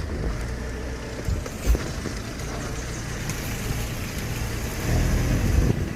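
An engine running steadily with a low hum that swells louder near the end. There are a couple of short thumps in the first two seconds.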